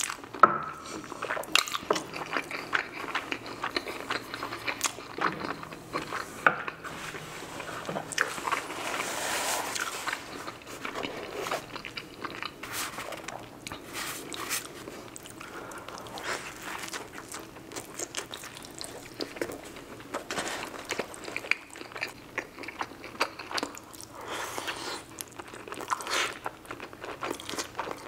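Close-miked eating sounds: wet chewing, biting and crunching, with many irregular mouth clicks and smacks, including bites into a cheeseburger.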